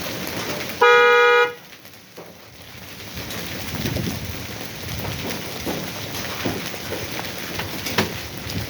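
Hail and rain pelting down, a steady hiss with scattered sharp hits. About a second in, a car horn sounds once for about half a second, and the storm noise dips briefly after it.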